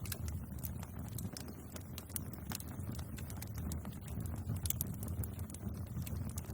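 Bonfire burning with a steady low rumble of flames and frequent irregular sharp crackles and pops from the burning wood.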